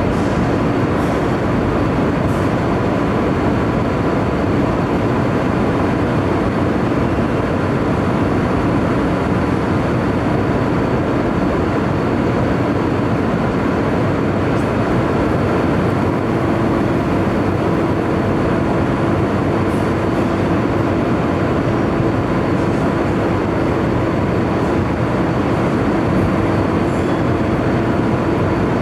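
Steady loud mechanical drone and rush of noise aboard a car ferry, with a faint steady hum running through it.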